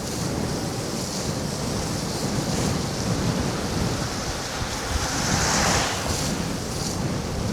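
Wind rushing over the microphone of a moving electric scooter, with its tyres hissing on the wet, snowy road: a steady low rumble and hiss that swells to a louder hiss about five seconds in.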